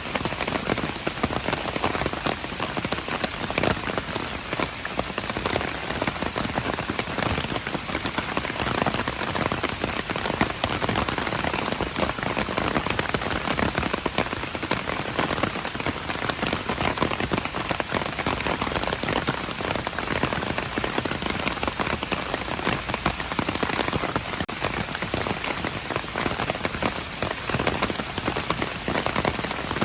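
Steady rain falling, a dense, even patter of countless drops hitting surfaces, with no let-up.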